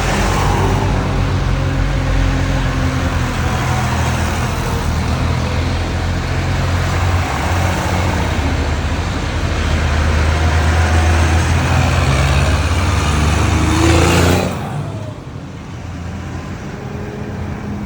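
Tractor diesel engines running loudly close by, with a steady low drone that drops off sharply about fourteen and a half seconds in.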